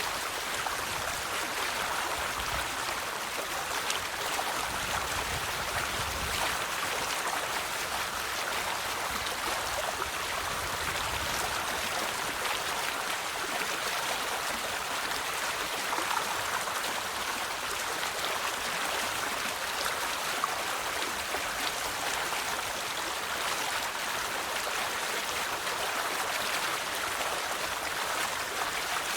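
River water flowing steadily over stones, an even rushing and babbling.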